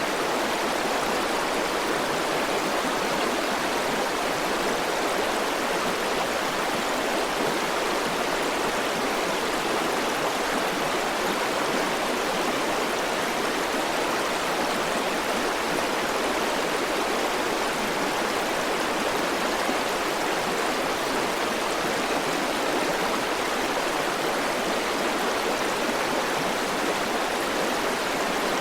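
River water flowing over stones, a steady, even rush without breaks.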